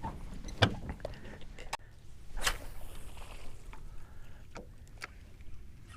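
A few light, separate knocks and clicks of fishing gear being handled aboard a small skiff, over a low steady background rumble.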